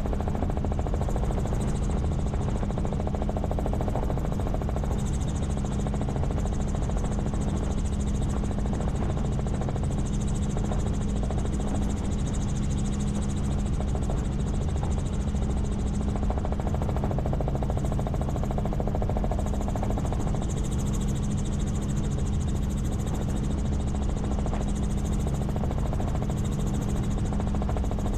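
Helicopter in steady flight: a constant drone of engine and rotor, with a steady hum, unchanging throughout.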